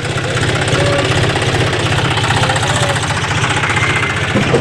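Tractor engine running steadily with a fast, even pulse, a little louder just after the start than in the seconds around it.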